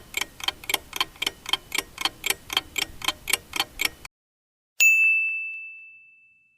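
Countdown-timer sound effect: clock ticking about three times a second, which stops at about four seconds, followed a little later by a single bell ding that rings and fades, marking that the answer time is up.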